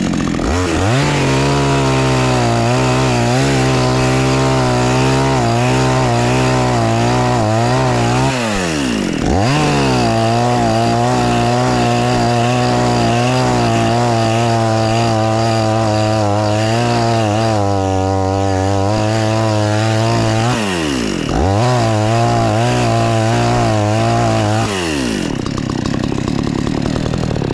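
Two-stroke chainsaw cutting into a tree, revving up to full throttle about a second in, its pitch wavering under load in the wood. The revs dip and pick up again twice, then drop back to idle near the end.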